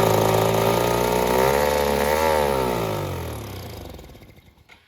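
Small gas engine of an engine-swapped Power Wheels quad running, its pitch rising a little about two seconds in, then slowing and dying away near the end.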